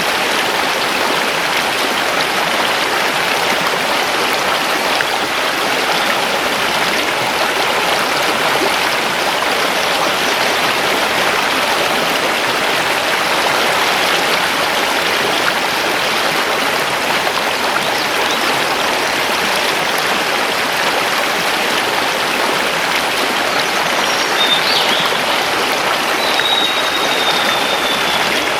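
Mountain river rushing steadily over stones. Near the end a bird gives a couple of faint high whistles, the last one slightly falling.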